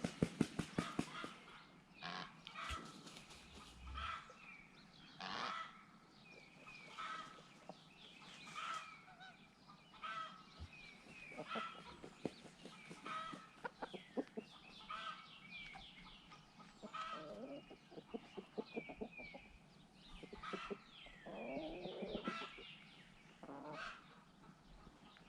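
A flock of chickens clucking and calling, short calls repeating about once a second. A couple of lower, drawn-out calls come in the second half.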